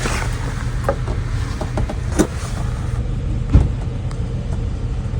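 Wind buffeting the microphone: a steady, fluttering low rumble, with a few light knocks about a second, two seconds and three and a half seconds in.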